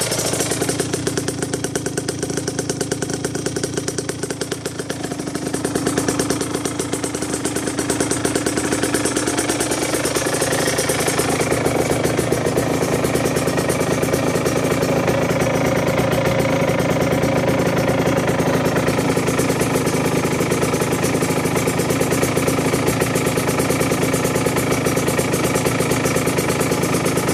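Aprilia RS125's two-stroke single-cylinder engine running at a rough, knocking idle. It dips a little a few seconds in, then picks up about six seconds in and holds steady.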